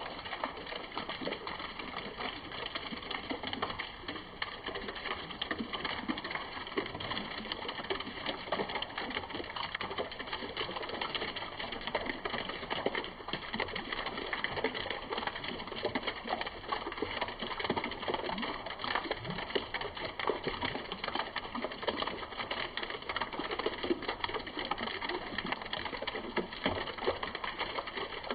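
Rain falling steadily: a dense, even spatter of many small drop impacts that never lets up.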